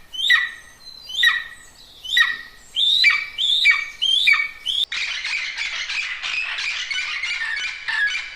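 A bird calling with a harsh squawk about once a second, each call falling in pitch. About five seconds in it cuts to the continuous chatter of a flock of birds.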